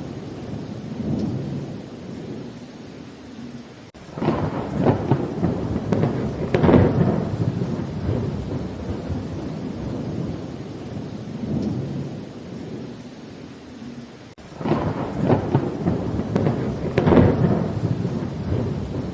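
Thunderstorm: steady rain with rolling thunder that swells up twice, about four seconds in and again about fourteen seconds in, each rumble lasting several seconds before dying back into the rain.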